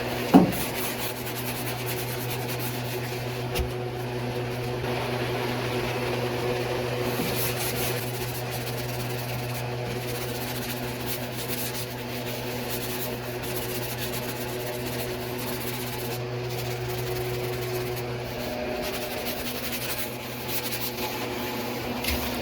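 Electric power sander running steadily: a motor hum with a few steady overtones over a rasping haze. The hum drops away about three quarters of the way through, and there is a sharp click right at the start.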